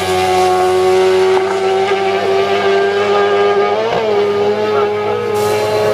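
Racing sidecar engine running hard at high revs, holding a nearly steady pitch with a brief wobble about four seconds in.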